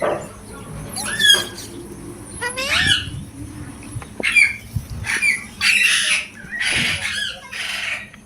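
Pet parrot calling in a string of short calls and squawks. Some calls slide up in pitch, and the later ones are harsher.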